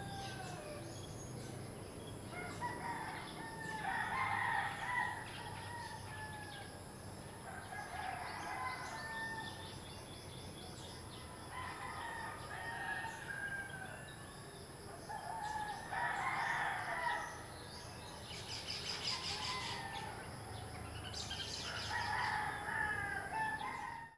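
Roosters crowing again and again, about five long crows a few seconds apart, with small birds chirping briefly in between.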